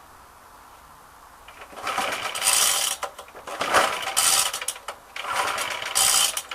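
Suffolk 75cc four-stroke sidevalve lawnmower engine being cranked over in about four quick spells, starting about two seconds in, without catching; the owner suspects it is flooded.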